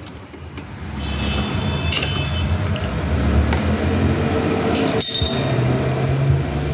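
Suzuki Swift car engine running with a steady low hum. A few short clicks sound over it, and the hum shifts slightly in pitch about five seconds in.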